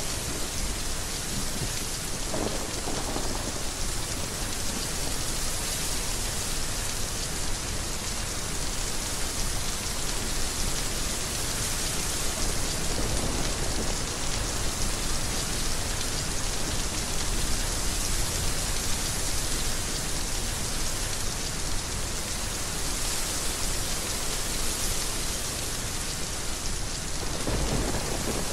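Heavy rain falling steadily, with low rumbling of thunder underneath that swells briefly near the end.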